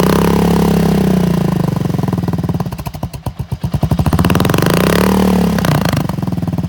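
Suzuki Boulevard S40's 650cc single-cylinder engine revved twice: each time the pitch climbs, holds briefly and drops back to a pulsing idle, the second rev starting about four seconds in.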